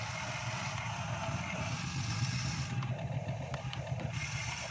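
Remote-control construction models running: a steady low mechanical hum, with a few faint clicks a little past the middle.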